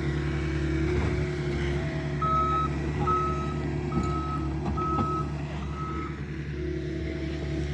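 A machine's reversing alarm beeps five times, about one beep a second, over its engine running steadily.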